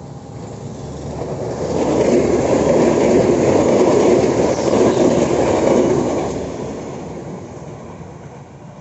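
Passenger train passing close by at speed: a rushing rumble of wheels on the rails that builds over the first two seconds, holds for about four seconds, then fades away.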